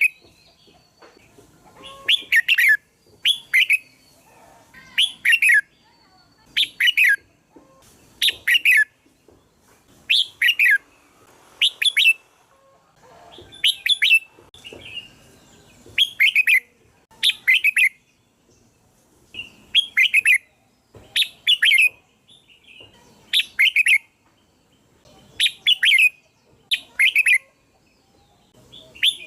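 Red-whiskered bulbul singing: short, bright warbled phrases repeated every second or two, often in quick pairs.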